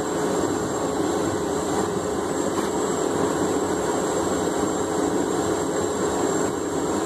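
A blacksmith's forge running while steel heats in it: a steady rushing noise.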